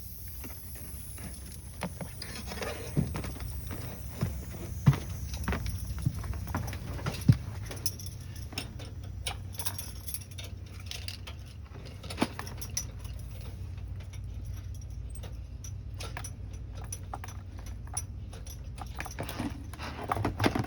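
Scattered metallic clicks and clinks of an oxygen fill line's connector and fittings being handled and disconnected, over a steady low hum.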